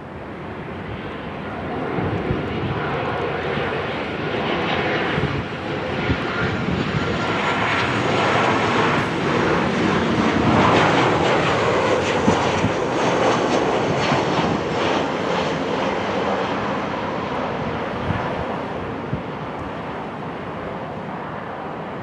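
Jet airliner passing close by: engine noise builds over a few seconds, is loudest about ten seconds in, then slowly fades away.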